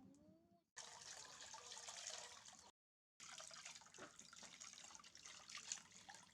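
Shower water trickling and splashing while a baby monkey is washed, with small drips and splashes; the sound breaks off completely for a moment about three seconds in.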